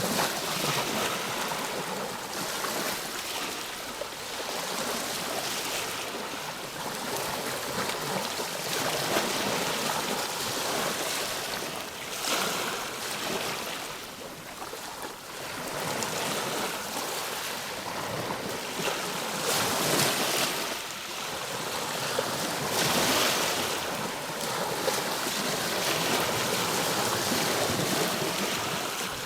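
Ocean waves breaking and washing on a shore, a continuous surf hiss that swells and eases every few seconds.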